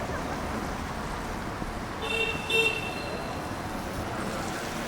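Two short vehicle horn toots in quick succession about two seconds in, over steady city street traffic noise.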